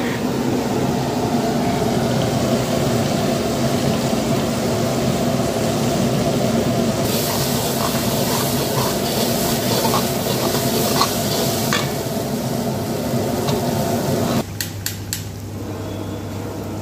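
Chopped onion-tomato masala sizzling in a steel kadhai while a steel ladle stirs and scrapes it, with scattered ticks of metal on metal. A loud steady roar runs under it and drops off suddenly near the end, leaving a low hum; the sizzle is strongest around the middle.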